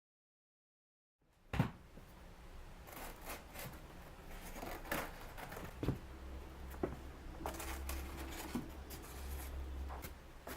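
Dead silence for about the first second, then scattered clicks, taps and scraping as foam baseboard moldings are handled and fitted against a polystyrene fireplace surround. A low hum sounds from about six to ten seconds in.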